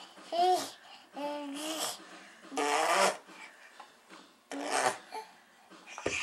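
Baby buzzing his lips in a wet raspberry to imitate a tractor engine, in a series of short bursts with brief pauses between them.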